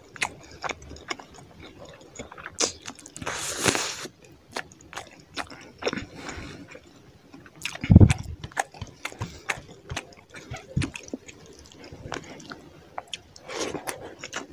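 Close-up eating sounds: wet chewing and lip smacks as rice and fish curry are eaten by hand, with fingers squishing the rice and gravy on the plate. A brief rushing sound comes about three and a half seconds in, and a low thump about eight seconds in.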